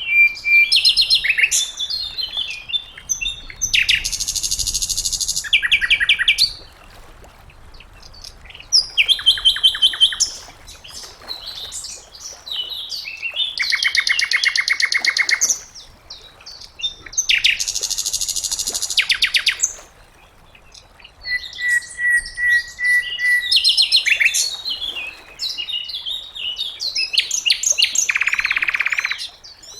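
Sikatan londo flycatcher singing a varied song: phrases of a few seconds each made of very rapid trills and buzzy rattles, with thin steady whistles near the start and about two-thirds of the way in, and short pauses between phrases.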